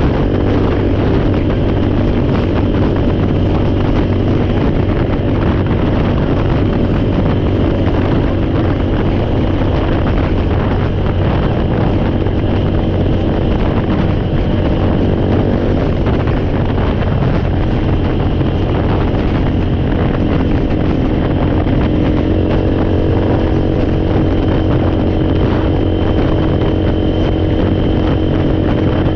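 Four-wheeler (ATV) engine running steadily, with a small shift in its pitch about two-thirds of the way through.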